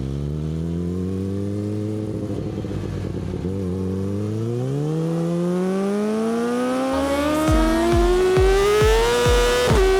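Yamaha R6's inline-four engine through an Akrapovic exhaust, running at a steady pitch at first and then rising steadily as the bike accelerates. Near the end the pitch dips briefly, then keeps climbing.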